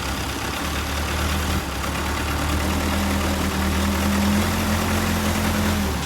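A vehicle engine running at a steady pitch over a haze of road or wind noise. The low engine tone comes in about half a second in and cuts off shortly before the end.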